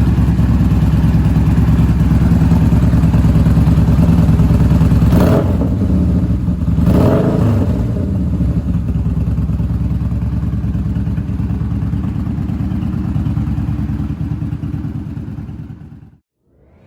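Yamaha Bolt's air-cooled V-twin idling through an aftermarket Vance & Hines exhaust, with two quick blips of the throttle about five and seven seconds in. It settles back to idle and fades out near the end.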